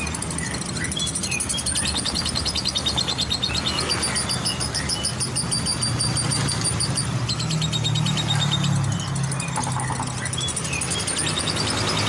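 Lovebird singing in long, rapid chattering trills of high chirps, over the low rumble of passing road traffic that swells briefly about two-thirds of the way in.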